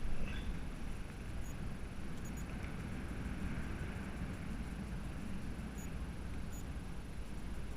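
Steady wind noise rumbling on the microphone, heavy in the low end, with no clear pitch or rhythm.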